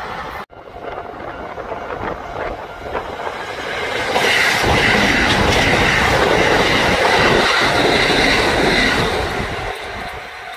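Kintetsu electric train passing: the rush and clatter of wheels on rail swell from about four seconds in, with a steady high-pitched squeal while the train is closest, then fade away. A brief break in the sound about half a second in.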